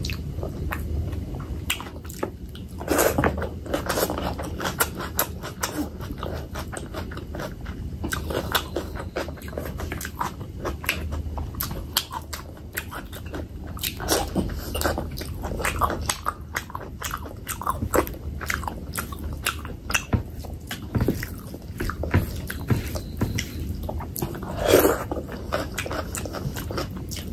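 Close-miked eating: chewing fatty pork belly and rice with many small, wet mouth clicks and smacks, and a few louder bites through the stretch.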